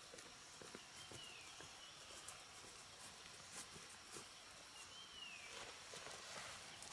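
Faint outdoor ambience: a bird gives a short call that slides downward, twice, about four seconds apart, with scattered faint clicks.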